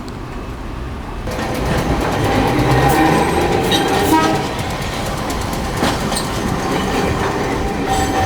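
Nagasaki streetcar passing close by on the rails, its noise swelling about a second in, with a few sharp wheel knocks over the track.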